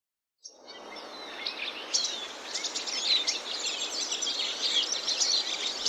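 Several birds chirping and singing at once, many quick overlapping calls over a steady background hiss, fading in about half a second in.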